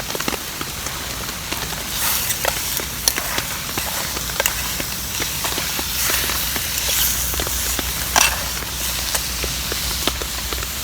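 Ribeye steak sizzling in a pan on a gas stove, with many small sharp pops and crackles, over heavy rain pattering on a tarp overhead.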